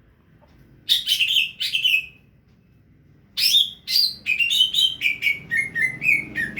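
A songbird chirping: three short, sharp chirps about a second in, then after a pause a quick run of chirps, about three a second, that step lower in pitch toward the end.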